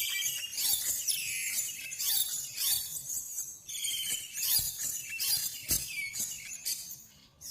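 Small birds chirping, a busy run of high, short notes, many of them falling in pitch.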